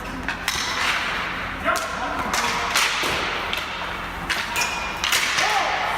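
Ball hockey play: sharp clacks and thuds of sticks striking the ball and each other, several at irregular intervals over a few seconds, with players' voices in the background.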